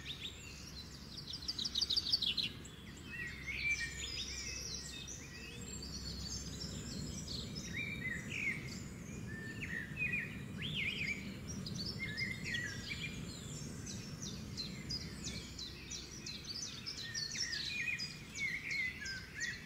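Several birds chirping and calling in short notes and quick trills over a steady low background rumble.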